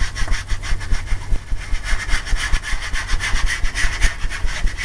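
A 2-inch paintbrush scrubbed rapidly back and forth on a canvas, working in a coat of liquid clear medium. It makes a steady, scratchy rasp of quick even strokes.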